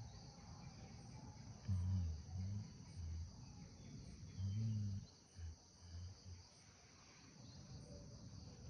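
Steady high-pitched chorus of crickets or similar insects. Several short, louder low-pitched sounds come between about two and six seconds in.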